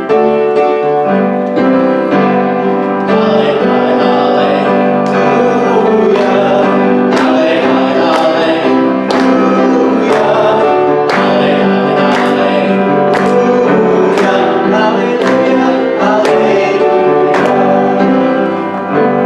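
A sung hallelujah acclamation with piano accompaniment: held chords struck about once a second under singing voices.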